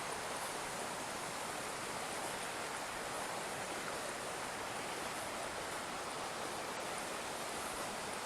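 Water flowing in an irrigation canal, a steady even rush.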